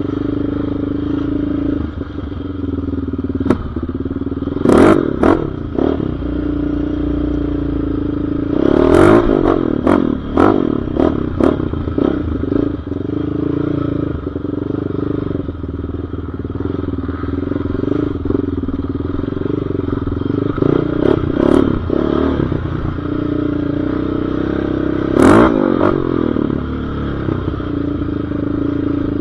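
Off-road vehicle engine running at a fairly steady pitch while riding, with sharp clattering knocks now and then, thickest about a third of the way in and again near the end.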